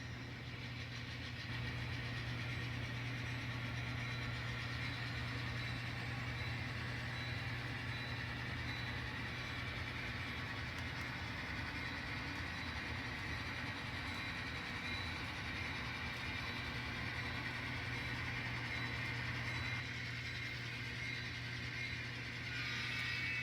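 N scale model train locomotive running during yard switching, a steady engine-like hum. It gets a little louder about a second and a half in and eases briefly near the end.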